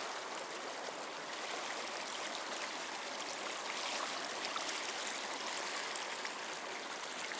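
Swift runoff water rushing steadily down a flooded wash.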